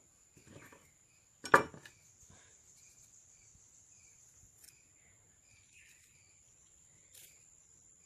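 Handling noises: a few soft rustles and one sharp knock about one and a half seconds in, over a steady faint high-pitched tone.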